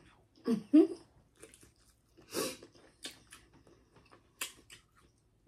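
Close-miked mouth sounds of someone eating seafood-boil shrimp: scattered wet smacks and clicks of chewing. A brief voiced sound comes about half a second in, and a short noisy burst a little past two seconds.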